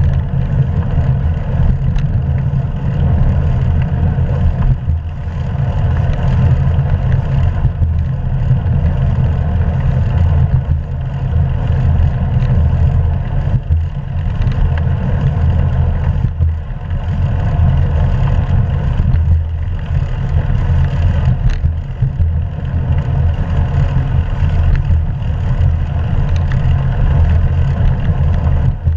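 Wind buffeting the microphone of a bike-mounted action camera while riding: a loud, steady low rumble.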